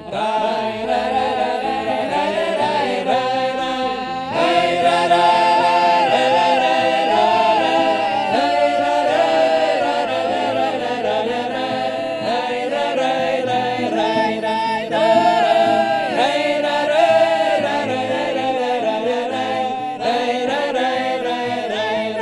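A wordless vocal ensemble sings the melody of a Russian romance in a passage between verses, with wavering held notes.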